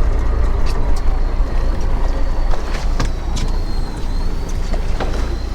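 Steady low rumble of a fishing boat's engine under way, with hissing wind and water noise and a few sharp clicks.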